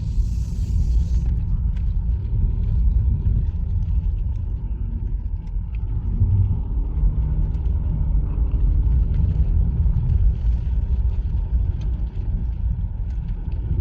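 Steady low road and tyre rumble inside a moving Honda Fit's cabin on a winter road, with a brief hiss in the first second.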